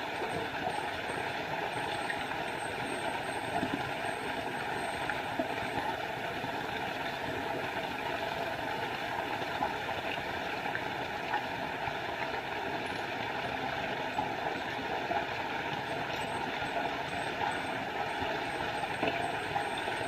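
Small forest waterfall: water falling and rushing with a steady, even noise.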